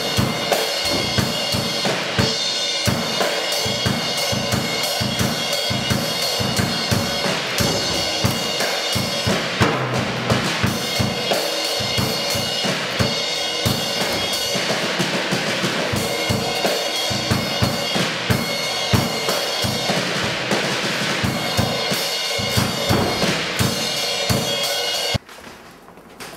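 Drum kit solo: fast, dense bass drum and snare hits over ringing cymbals, cutting off suddenly about a second before the end.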